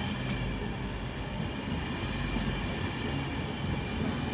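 A train at the station running steadily: a low hum with a faint, steady high whine and a few light clicks.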